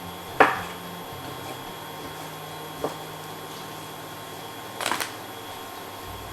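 Kitchen knife knocking on a chopping board as raw chicken breast is sliced into thin pieces: a sharp knock about half a second in, a lighter one near three seconds and a quick double knock near five seconds, over a low steady hum.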